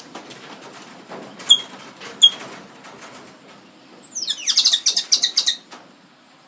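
A black bird calling: two short, sharp high notes about a second apart, then a loud rapid chattering phrase of quick notes, some sliding downward, lasting about a second and a half.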